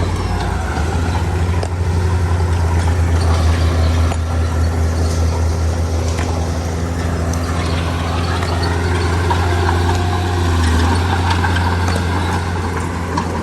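Heavy diesel earthmoving machinery running under load: a steady, deep engine drone, with the higher engine tones shifting in pitch about eight seconds in.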